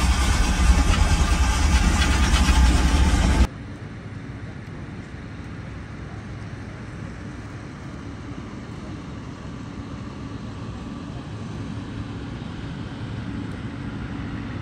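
Loud, steady low rumble of the cog railway train heard inside the wooden passenger coach. It cuts off abruptly about three and a half seconds in, giving way to quieter, steady outdoor background noise.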